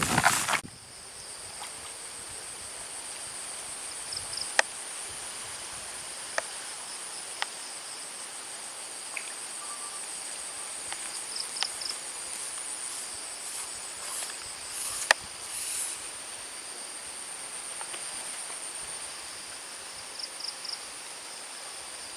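Steady high-pitched drone of insects, with short chirping trills a few times and a handful of sharp clicks. A brief loud noisy burst opens it.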